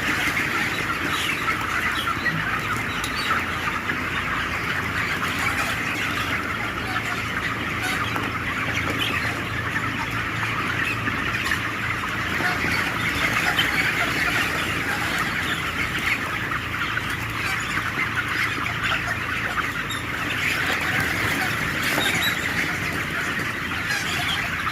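A large flock of 26-day-old broiler chickens calling all at once, a dense, unbroken chatter of many overlapping clucks and peeps.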